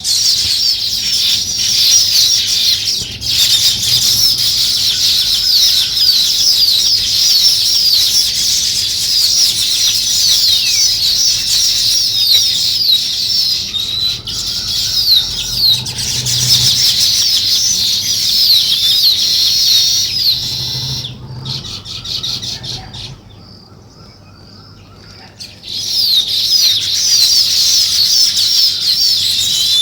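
A flock of small birds chattering with dense, rapid, overlapping chirps. About two-thirds through, the chirping thins and stops for a couple of seconds, then starts again.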